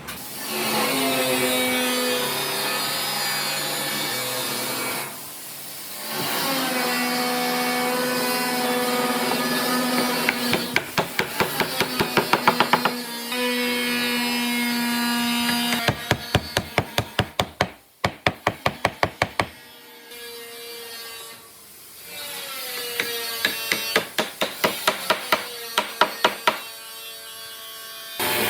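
An electric power tool working wood, its motor whine running in several passes with short stops between. At times it is joined by fast, regular sharp knocks, about four or five a second, and the pitch drops for a moment partway through.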